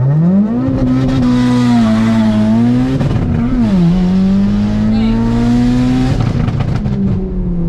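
Audi TT's built, big-turbo 1.8T four-cylinder (GTX3071R turbo) pulling hard, heard from inside the cabin. The revs climb quickly and hold high, dip with a gear change about three seconds in, pull again, then drop and settle near the end.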